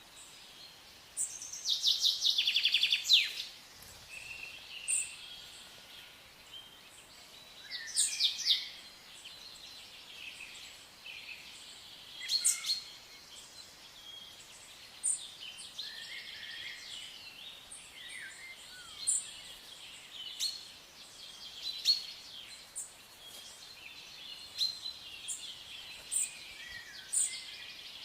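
Several songbirds singing and calling: a loud, rapid trill about a second in, further song phrases around eight and twelve seconds, and many short high chirps scattered between them over a faint outdoor hiss.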